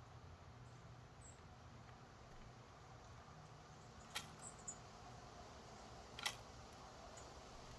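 Quiet background with a low hum, broken by two sharp clicks about two seconds apart and a few faint, very short high chirps from small birds at a bird feeder.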